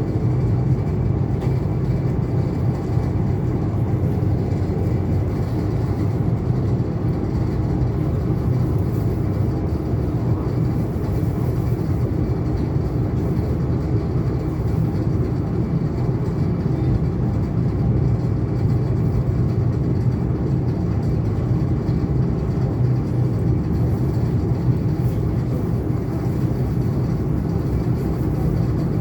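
ET2 electric multiple unit running steadily between stations, heard from on board: a continuous low rumble of wheels and running gear on the rails.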